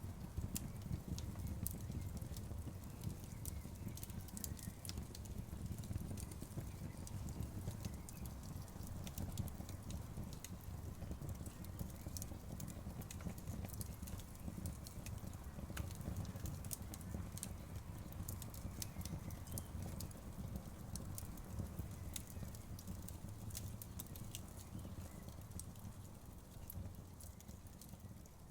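Outdoor bonfire crackling: a steady low rumble of burning with frequent, irregular sharp pops and snaps of burning wood.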